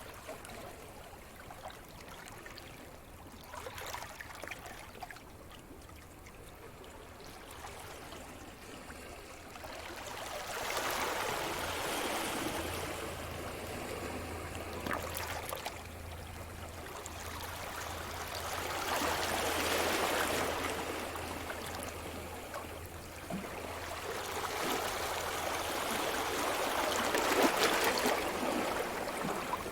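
Sea surf: waves breaking and washing up the shore. After a quieter start, the wash swells and fades three times, about every seven to eight seconds.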